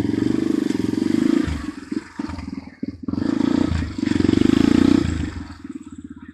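Dirt bike engine riding off under throttle, swelling twice with a dip between as the throttle opens and eases, its rapid firing pulses audible, then fading near the end.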